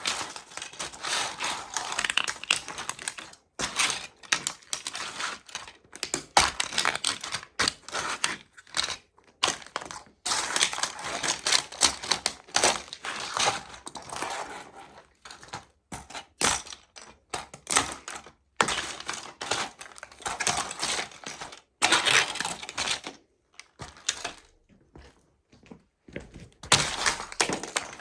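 Toy model trucks being crushed underfoot by sneakers: rapid cracking, crunching and clicking that comes in spells broken by short pauses.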